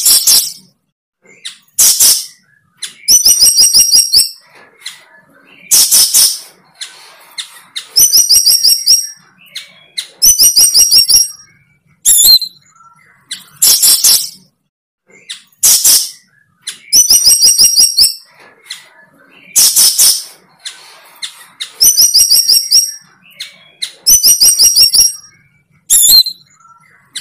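A bird calling loudly and repeatedly, about once every two seconds. Some calls are a quick run of high notes; others are harsher and rougher.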